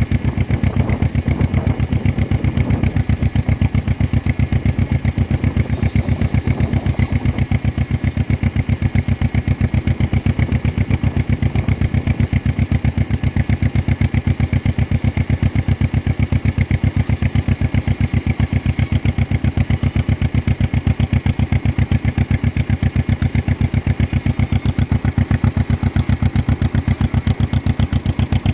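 1953 John Deere 40 tractor's two-cylinder engine running at a steady speed, its exhaust beating in rapid, even pulses.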